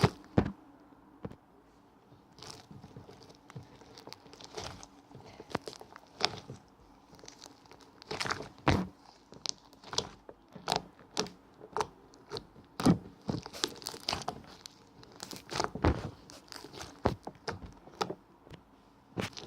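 Irregular crinkling and crunching, with sharp crackles every second or so and some louder clusters.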